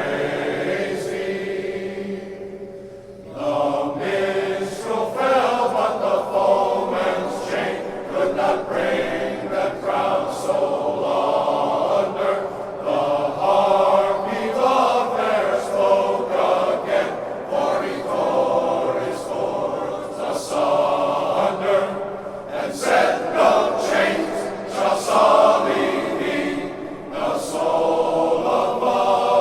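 Men's glee club choir singing in harmony, holding long notes, with one short break near the start before the voices come back in.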